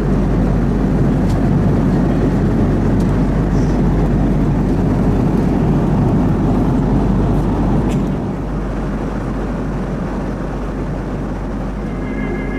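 Steady jet airliner noise: a low rumble and rush of engines and airflow with no rhythm, dropping slightly in level about eight seconds in.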